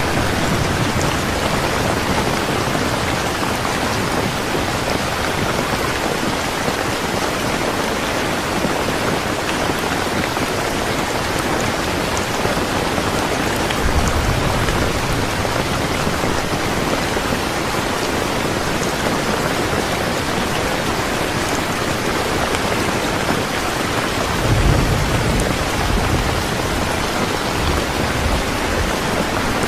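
Steady rain falling. Low rumbles of distant thunder come about halfway through and again, louder, near the end.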